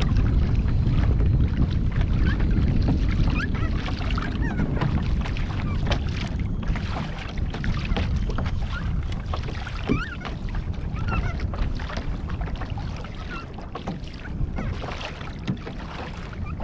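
Wind buffeting the microphone with water splashing and lapping around a kayak as it moves along while trolling. The wind rumble is heaviest in the first few seconds and then eases.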